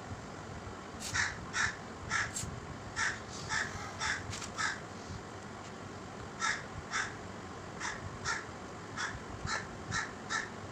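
A bird calling in short harsh notes, about two a second, in two runs with a pause of about two seconds between them.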